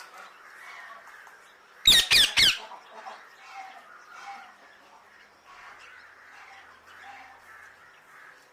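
Parrot squawking: three loud, harsh screeches in quick succession about two seconds in, with faint soft chatter before and after.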